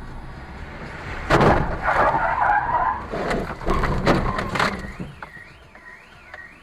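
Car crash: a sudden loud impact about a second in, followed by scraping and several more bangs as the vehicles collide. Then a rapid, evenly repeating rising-and-falling electronic tone sets in.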